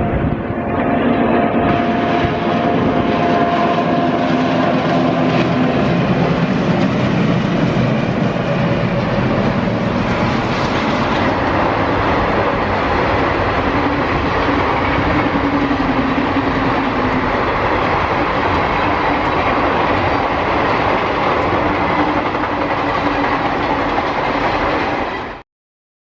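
Diesel-hauled passenger train passing close by at speed: a loud, steady rush of wheel and rail noise, with a regular clicking of wheels over rail joints in the second half. The sound cuts off suddenly near the end.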